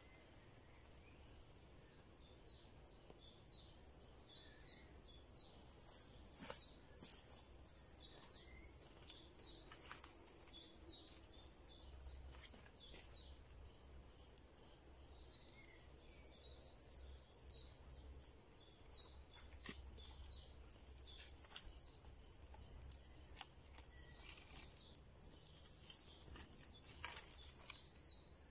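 A small bird chirping in long runs of short, high, quickly repeated notes, pausing now and then, with a few faint sharp cracks.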